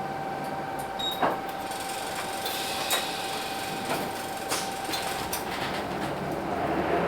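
Inside a Hino Blue Ribbon City bus: a steady whine with scattered clicks and rattles from the cabin. Near the end the P11C 10.5-litre diesel engine starts to rise in pitch as the bus gets under way.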